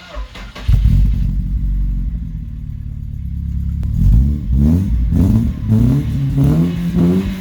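An engine starts abruptly about a second in and runs steadily. It is then revved several times in the second half, its pitch rising and falling with each rev.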